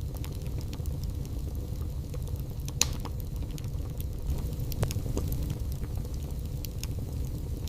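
Wood fire burning in a fireplace: a steady low rumble of flames with frequent small crackles and two louder pops, about three and five seconds in.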